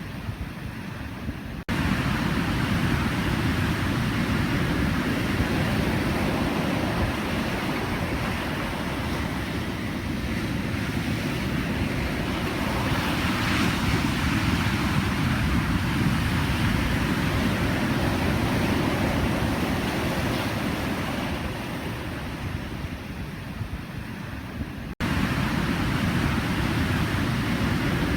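Pacific Ocean surf: a continuous wash of breaking waves, heaviest in the low rumble, stepping up abruptly in loudness about two seconds in and again near the end.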